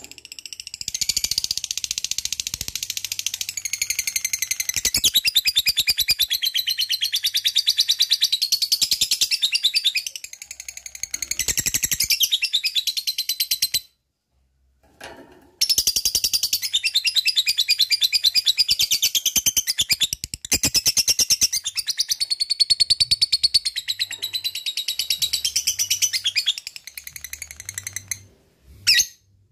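Lovebird 'ngekek': a long, fast, high-pitched chattering trill of rapidly repeated notes. It runs for about 14 seconds, stops for a couple of seconds, then starts again for about another 11 seconds before trailing off in short bursts.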